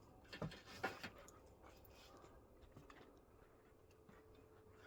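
Near silence, with a few faint knocks about half a second to a second in and a faint steady hum later on.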